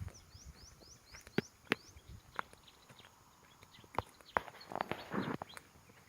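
A bird's quick run of short, high, rising chirps in the first second or so. Scattered sharp clicks and knocks follow, with a short rustle about five seconds in.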